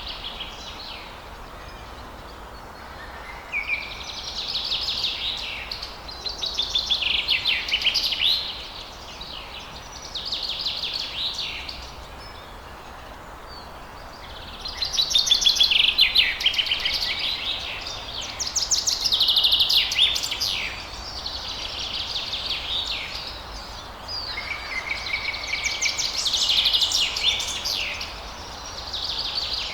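Songbird singing at dawn: repeated warbling phrases of one to two seconds each, with short pauses between them, over a steady background hiss.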